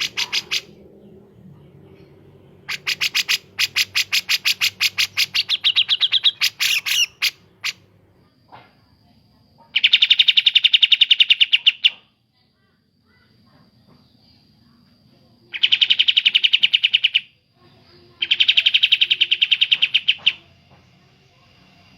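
Recorded calls of kapas tembak and cucak jenggot (grey-cheeked bulbul), played loud for bird training. First comes a rapid run of harsh, repeated chattering notes. Then come three dense, buzzing bursts of about two seconds each, with short pauses between them.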